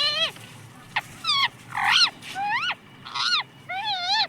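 Pet parrot calling: a run of about six short, high-pitched squawks, each bending in pitch, a little under a second apart.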